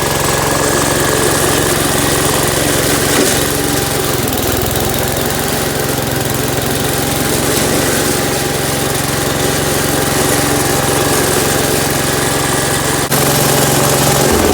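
Gravely tractor's Kohler K241 single-cylinder engine running steadily shortly after a cold start, having sat unused for about two months. Its note shifts about four seconds in and changes abruptly near the end.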